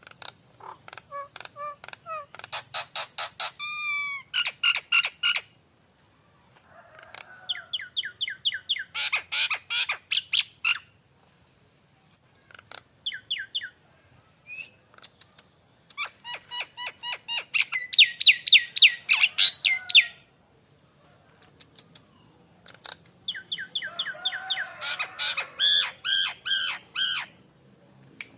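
Nias hill myna calling in bouts of rapid, loud, repeated whistled notes, about five bouts of several seconds each with short pauses between.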